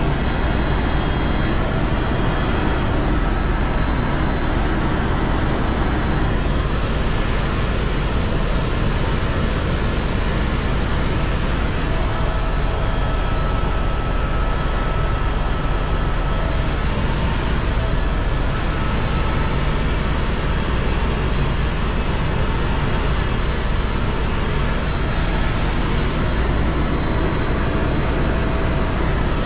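Helicopter in flight: steady engine and rotor noise with a strong low rumble, unchanging throughout.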